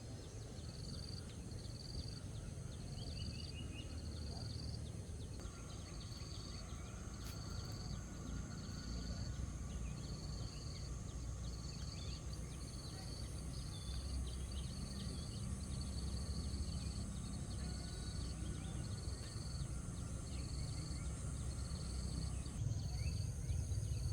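Outdoor ambience: a steady low rumble, with an insect chirping evenly at a high pitch, about three chirps every two seconds.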